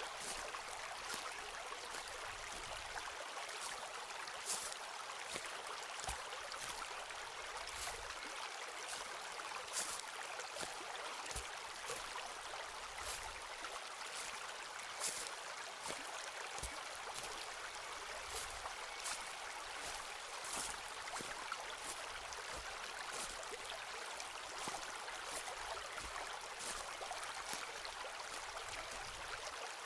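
Footsteps on a forest path, about one step a second, each a short crisp crackle, some with a soft low thud. They sound over a steady rushing background.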